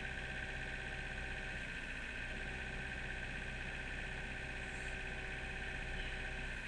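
Kubota mini excavator's diesel engine running steadily with the throttle up to keep it from stalling under the digging load.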